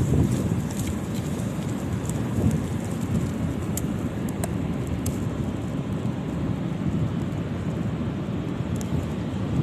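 Steady low rumbling noise of wind buffeting the microphone by the sea, with a few faint ticks around the middle.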